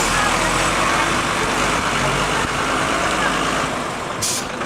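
Truck engine running steadily amid street noise. Its low rumble drops away about four seconds in, followed by a brief hiss.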